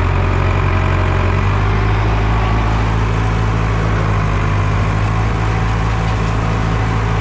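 Farm tractor engine running steadily at idle, a loud, even low hum.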